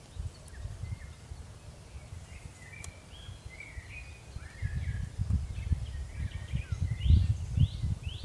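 Small birds chirping and calling, ending in a quick run of short repeated notes, over gusts of wind buffeting the microphone.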